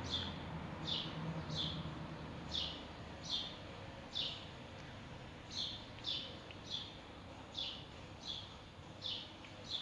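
A bird calling over and over: short, high, falling chirps, about one or two a second at an uneven pace.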